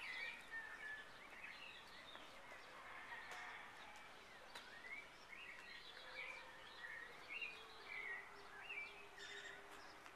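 Faint bird chirps, short and scattered, over quiet background hiss.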